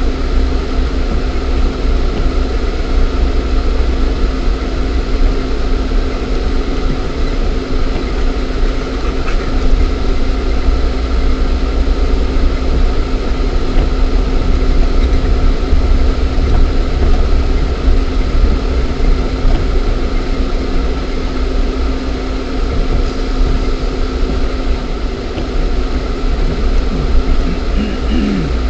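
Lada Niva 1.7i's four-cylinder petrol engine running with a steady low rumble and hum, heard from inside the cabin.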